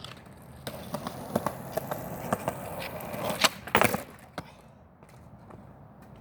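Skateboard wheels rolling over pavement with a string of sharp clicks. About three and a half seconds in, the board smacks down hard several times, the loudest sounds here, with one more knock just after.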